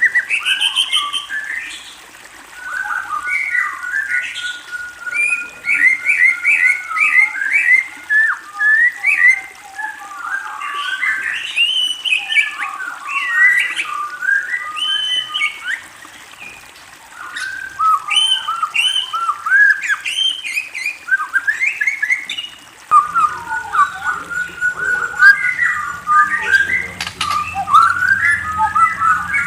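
A bird chirping and warbling in fast, varied phrases of quick rising and falling notes, with brief pauses a couple of seconds in and again around the middle. A low steady hum comes in underneath about three quarters of the way through.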